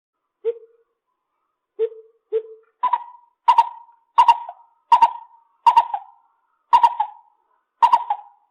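Lesser coucal calling: three low hollow hoots in the first couple of seconds, then a steady series of higher, harsher notes about every two-thirds of a second.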